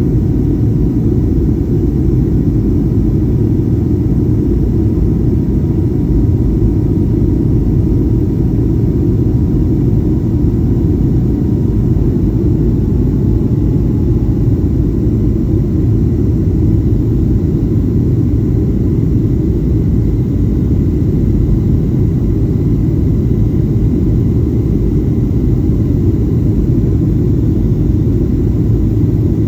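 Steady cabin rumble of a Boeing 737-800 in flight, from engine and airflow noise, with faint steady whine tones above it.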